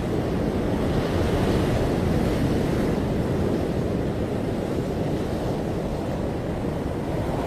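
Ocean surf breaking and washing on a beach: a steady rush of waves that swells a little about a second in.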